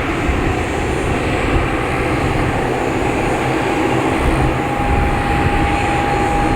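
Airliner engines running steadily, with a thin steady whine coming in about halfway through.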